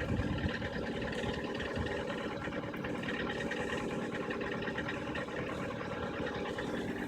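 Lada Priora's VAZ-21126 1.6-litre 16-valve petrol engine running steadily with a knock coming from the engine.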